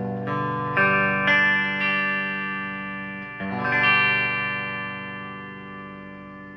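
Sire S7 Vintage electric guitar with single-coil pickups playing chords on a clean amp tone. Chords are struck a few times in the first two seconds and twice more about three and a half seconds in, then the last chord rings out and fades.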